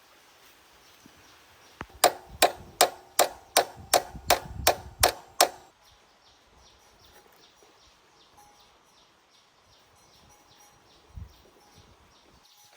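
Ten quick hammer-like blows on metal, about three a second, each with a short metallic ring. Insects chirp faintly and steadily once the blows stop.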